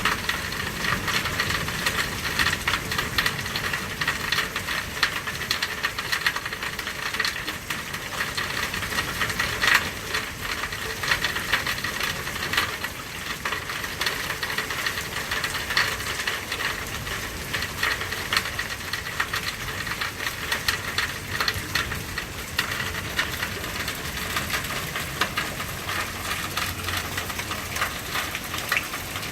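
Steady rain, a dense hiss of rainfall with many individual drops pattering close by.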